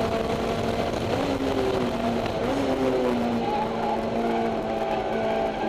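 Honda S2000's four-cylinder engine breathing through an EVS Tuning 70-SSP exhaust and Mugen header, heard from inside the cabin with the windows open while lapping a track. The engine note holds, drops and wavers about a second in, then climbs steadily through the second half as the car accelerates.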